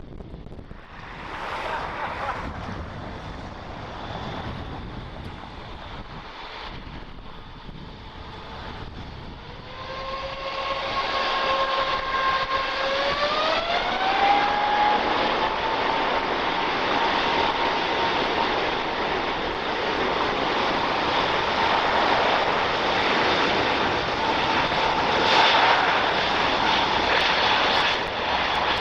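Jet airliner engines spooling up to takeoff thrust, most likely an Airbus A350's Rolls-Royce Trent XWB turbofans. About ten seconds in, the engine noise swells and a pair of whining tones rise in pitch. The engines then run loud and steady at full power.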